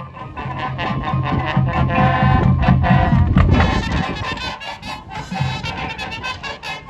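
High school marching band playing: brass chords over steady drum beats, swelling louder about two seconds in and easing off after about four seconds.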